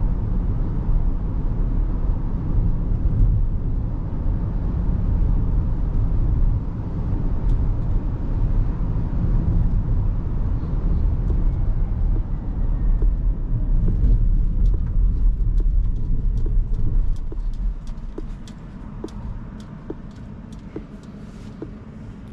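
Low rumble of road and tyre noise from a moving Rivian R1S quad-motor electric SUV, with no engine note. The rumble drops off sharply about eighteen seconds in, and a run of light, irregular ticks is heard through the second half.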